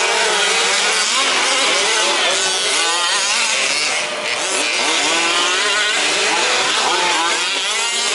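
Several 1/5-scale two-stroke petrol 4WD RC trucks racing, their small engines buzzing and revving up and down over one another.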